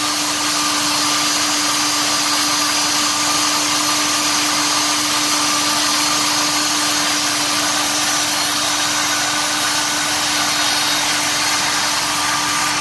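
Ford 302 V8 crate engine held at a steady fast idle of about 2,250 rpm for cam break-in, mixed with the steady rush of its very big flex fan. One constant tone runs through an even roar, with no change in speed.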